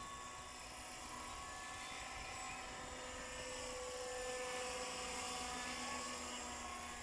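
Hurricane 550 radio-controlled helicopter running, fitted with an Agusta A109 scale fuselage: a steady whine from the motor and gears over rotor noise. The pitch of the whine drifts slowly up and down.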